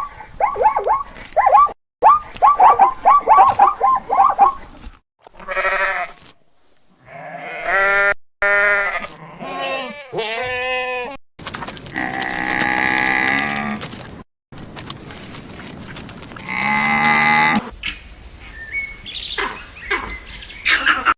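A string of separate farm-animal clips. It opens with a burst of rapid short, high calls, then sheep bleat several times, some calls long and wavering, and scattered chirps come near the end.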